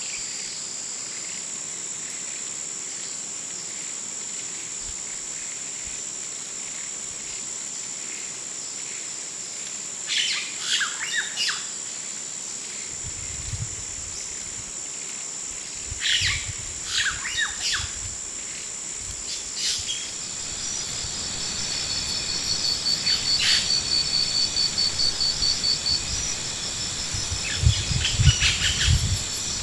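Summer countryside ambience: a steady, high insect drone underneath short bursts of bird chirps that come four times. In the second half a rapid, pulsing, cricket-like trill joins in, and soft low thumps are scattered through it.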